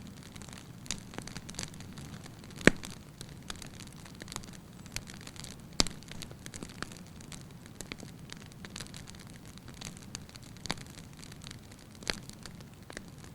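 Wood fire burning and crackling: a steady low rush with scattered sharp pops, two louder pops about three and six seconds in.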